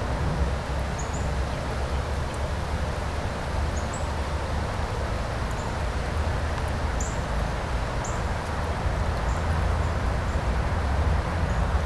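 Steady rushing of a rain-swollen river, with a low rumble of wind on the microphone. Short high chirps sound now and then over it.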